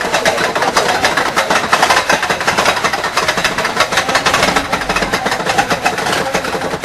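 Roller coaster car clattering and rattling rapidly along its track, a dense continuous run of clicks and knocks.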